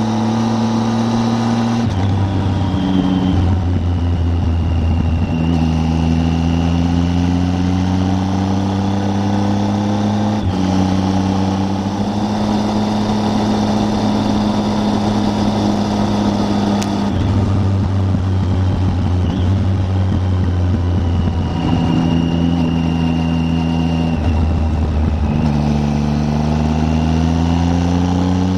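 Triumph Tiger 800's three-cylinder engine heard on board while riding, its pitch holding and gliding, then stepping up or down several times with gear changes.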